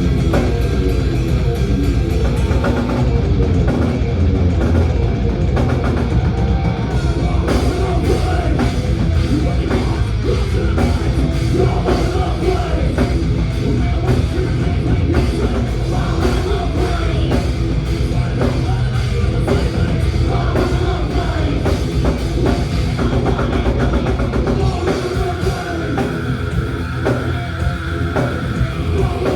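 Thrash metal band playing loud and live: heavy drum kit and dense distorted music running without a break. About 25 seconds in the low end thins and a single high note is held.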